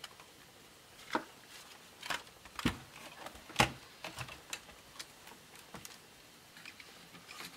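Irregular clicks and light knocks of the HP 625 laptop's plastic parts being handled while the motherboard is worked loose, the loudest knock about three and a half seconds in.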